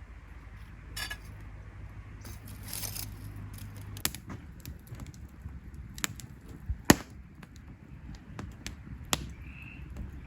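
Scattered light clicks and knocks, the loudest just before seven seconds in, over a low hum that stops about four seconds in.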